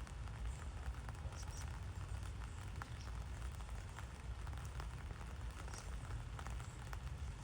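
Rain falling, with scattered drops ticking irregularly over a steady low rumble.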